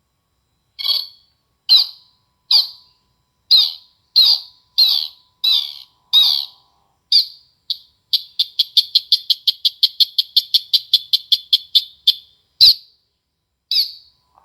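Recorded bird calls played loud through a small amplifier and speaker: separate chirps about once a second, then a fast trill of about six notes a second lasting some four seconds, then a few more chirps. There is a single sharp click shortly after the trill.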